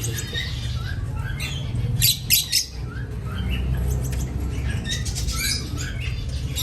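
Caged birds chirping over and over in short calls, with a few sharp rattling clicks about two seconds in, over a steady low hum.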